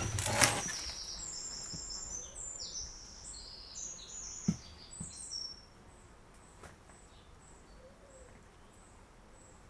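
Small birds chirping in a quick run of short high notes for a few seconds, after a loud burst of noise right at the start and with a dull knock about halfway through; after that only a faint high chirp repeating about twice a second.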